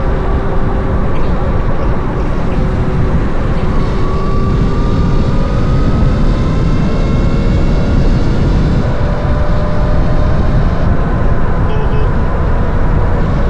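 Wind rushing over the camera microphone while riding an electric motorcycle, a steady loud rumble, with faint whines slowly gliding up and down in pitch.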